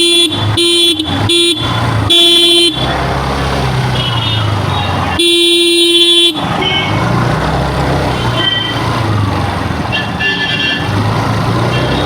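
Vehicle horn sounding one steady note: four short beeps in the first three seconds, then one longer beep of about a second near the middle, over a low engine running steadily.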